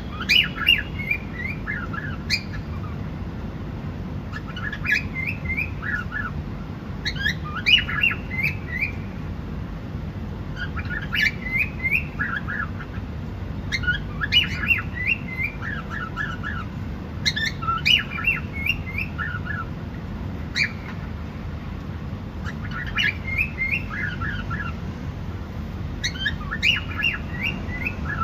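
Cockatiel calling in short repeated phrases, each a quick run of several falling chirps, the phrases coming about every three seconds over a steady low background hum.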